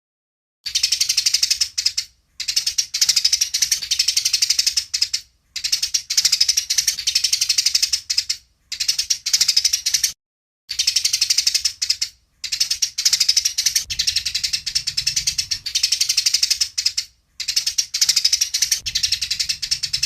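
Eurasian tree sparrows chattering in a dense stream of rapid, harsh chirps: the agitated calling of sparrows fighting. The chatter comes in runs of one to three seconds, broken by short, sudden gaps.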